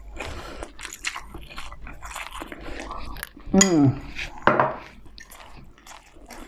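Close-miked chewing and crunching of crispy dumplings, full of wet mouth clicks and small crackles. A short voiced sound with a bending pitch comes in about three and a half seconds in, followed by another brief vocal burst.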